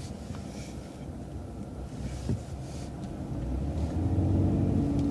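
City transit bus driving, a steady low road and engine rumble with a single knock about two seconds in. Near the end the engine hum grows louder as the bus picks up speed.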